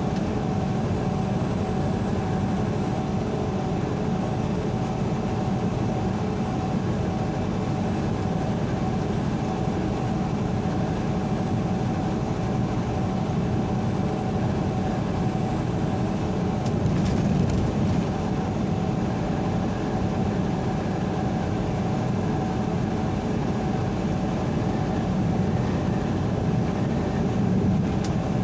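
Steady rumbling hiss of a running vehicle, with a few faint held tones, swelling slightly a little past halfway and again near the end.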